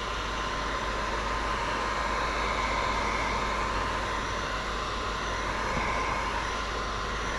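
Heat gun blowing steadily, an even hiss with a faint steady whine, heat-shrinking window tint film.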